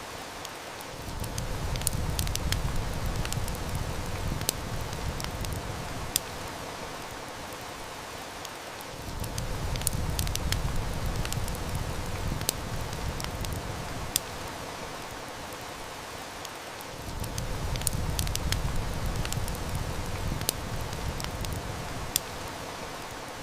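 Heavy rain hissing steadily, with the sharp, irregular snaps and pops of a wood fire crackling. A low rumble swells and fades three times underneath.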